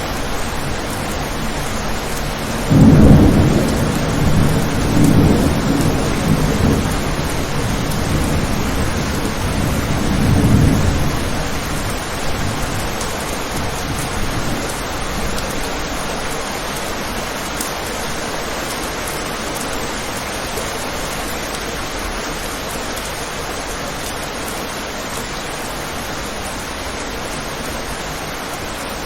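Steady rain on a window, with a roll of thunder breaking suddenly about three seconds in and rumbling on in several swells for around nine seconds before it fades.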